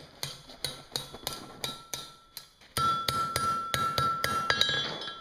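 Hand hammer striking a hot steel bar on an anvil in quick, even blows, about four a second, each with a metallic ring. The bar is being bent in to form a scroll's long radius. About three seconds in, the blows get louder and the ring lasts longer.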